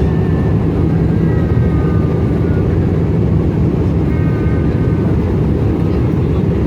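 Steady cabin noise inside an Airbus A320 in flight: a constant low rumble of the engines and airflow over the fuselage.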